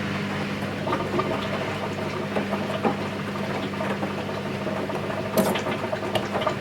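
Washing machine mid-wash on a 40 °C program, its drum turning the laundry through the water: a steady motor hum with uneven splashes and soft knocks, one louder about five seconds in.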